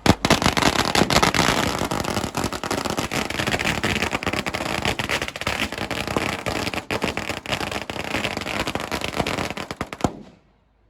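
Fireworks crackling: a sharp bang, then a dense, rapid crackle of many small bangs for about ten seconds that stops suddenly near the end.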